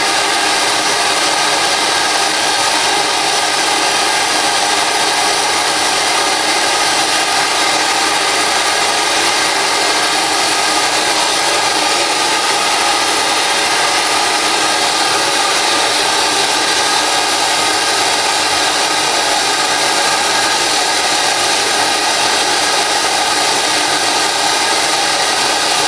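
Compressed-air operated vacuum cleaner running at full flow, its air-driven vacuum pump making a loud, steady rushing hiss as it draws spilled flux powder up through a floor brush.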